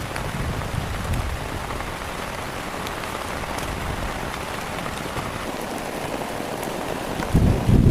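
Heavy rain falling steadily on a surface. About seven seconds in, a louder low rumble breaks in over it.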